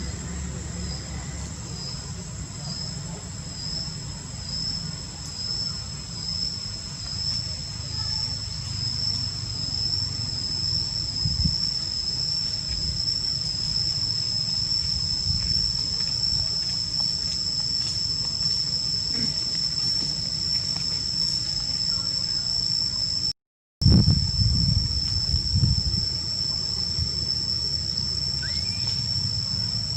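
Insects buzzing in a steady high-pitched drone, pulsing for the first few seconds and then continuous, over a low rumble. About two-thirds in, the sound cuts out for a moment, then a few dull thumps follow.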